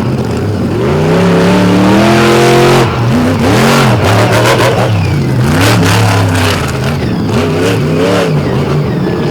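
Monster truck engine revving hard and falling off again and again, its pitch swinging up and down. Several short, sharp knocks come in the middle of the run.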